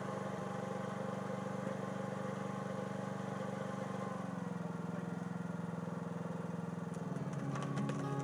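Engine of a home-built 4x4 diesel tractor running steadily, its pitch dropping slightly about four seconds in as the engine speed eases off.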